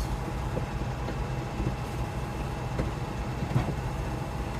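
Heavy truck's engine running with a steady low rumble.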